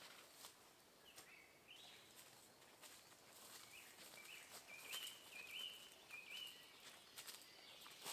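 Faint bird song in the forest: a short rising phrase of whistled notes about a second in, then a run of clear, level whistled notes through the middle, over scattered light clicks.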